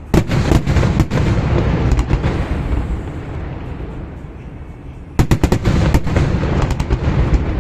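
Fireworks exploding: a quick run of sharp bangs over a low rumble at the start, then a second run of bangs about five seconds in.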